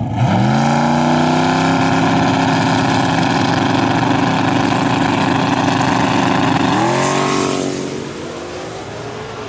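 A drag racing car's engine at full throttle. It revs up sharply right at the start and holds a high, steady pitch for about six seconds. Near the end it climbs once more, then fades away.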